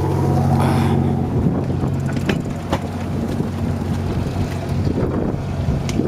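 A boat's engine running with a low steady hum under wind on the microphone, turning to a rougher rumble about a second and a half in. A few sharp knocks are heard over it.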